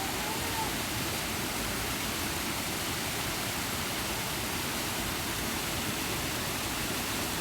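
Steady rush of water from a small waterfall that is running low, with little water coming down.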